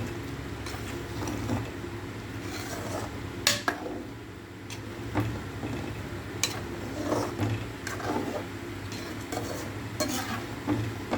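Metal utensils clinking against a cooking pot while the gravy is tended: a few sharp clinks, the loudest about three and a half seconds in, over a steady low hum.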